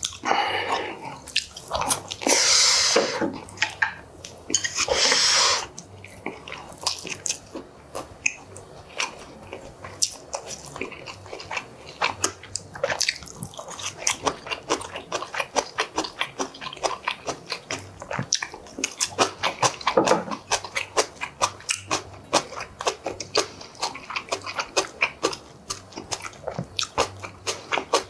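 Close-miked chewing and wet mouth sounds of a man eating braised pork kimchi stew and rice, a rapid run of smacking clicks. In the first six seconds there are two louder noisy rushes, each a second or so long.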